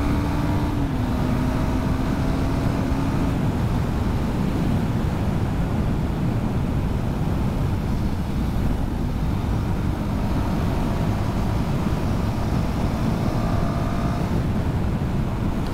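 KTM Duke 390's single-cylinder engine running under way at a steady pace, its pitch rising slowly in the first few seconds and again near the end, under a constant rush of wind noise.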